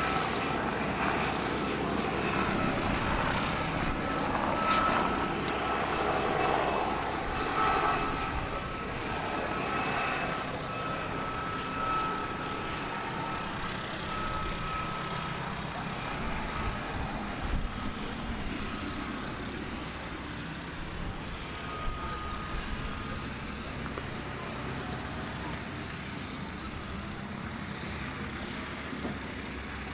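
Propeller aircraft engine droning steadily, slowly growing fainter.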